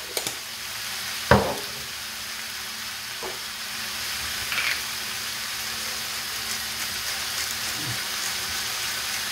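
Sliced chicken breast, peppers and onion frying in a pan, a steady sizzle. A few light knocks sound over it, the loudest about a second in.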